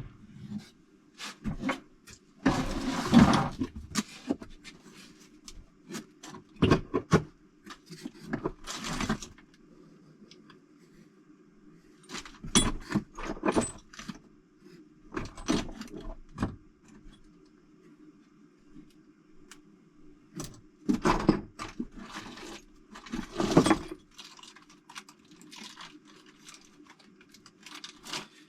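Loose metal engine parts (bolts, nuts and gaskets) being rummaged through by hand, clinking and jangling in irregular bursts with a few longer scraping and rustling spells. A steady low hum runs underneath.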